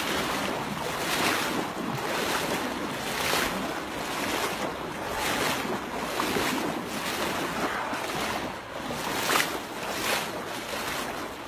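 Slow footsteps crunching about once a second over rough ground, with wind buffeting the microphone.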